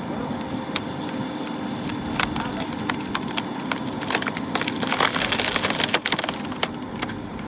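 JCB's diesel engine running steadily at a constant pitch, with repeated sharp cracks and knocks of material being broken and moved. A louder hissing, scraping burst comes about five seconds in.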